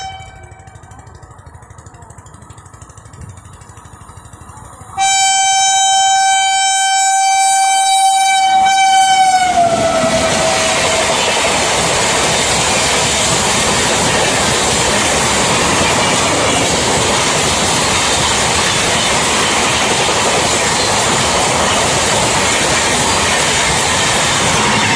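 WAP7 electric locomotive's horn sounding one long blast about five seconds in, its pitch dropping as the locomotive passes, then the loud steady rush and clatter of the express's coaches going by at speed.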